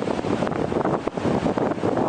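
Wind buffeting the microphone, with sea waves washing in beneath it.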